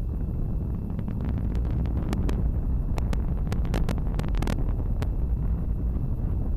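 Atlas V rocket's RD-180 main engine heard from the ground during ascent: a steady deep rumble with a run of sharp crackles through the middle.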